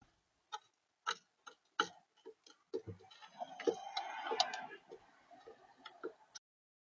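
Irregular taps and clicks on a plastic bird feeder, about a dozen in all, with a denser scraping rattle from about three to five seconds in, as a visitor feeds at the seed tray.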